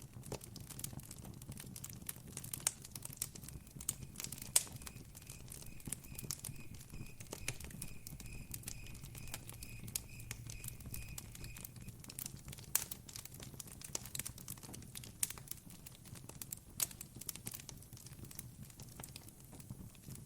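Campfire crackling, with irregular sharp pops over a steady low rumble. From a few seconds in until just past the middle, a cricket chirps faintly in an even pulsing rhythm.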